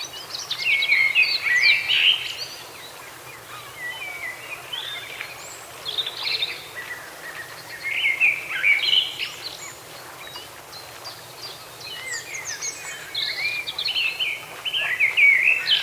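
Songbird singing: several bursts of quick, twittering song a few seconds apart.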